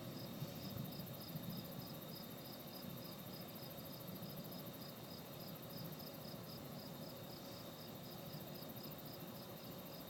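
Cricket chirping in an even rhythm, about three chirps a second, over a steady high-pitched insect trill and a low background rumble.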